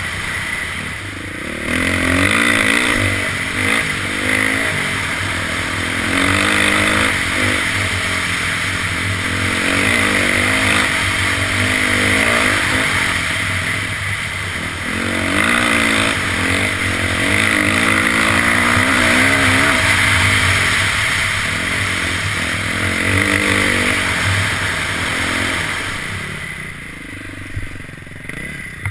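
Dirt bike engine riding a trail, the throttle opening and closing again and again so the pitch keeps rising and falling. It eases off and gets quieter near the end.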